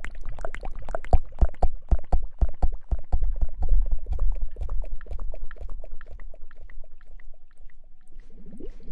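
Close-miked wet crackling and squishing, like hair being lathered with shampoo, with rapid irregular crackles and dull thumps against the microphone; a few short squelching sweeps near the end.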